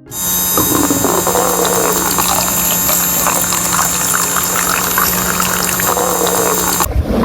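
Small electric water pump of a DIY model running with a steady hum and high whine while water pours and splashes; the motor cuts off near the end, leaving the water noise.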